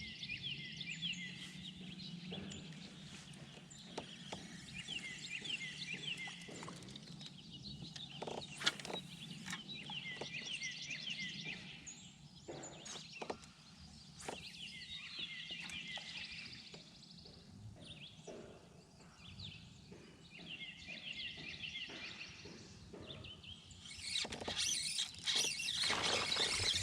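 A songbird singing a phrase of rapid chirps again and again, every few seconds, with a few sharp knocks in between. A louder rush of noise comes in near the end.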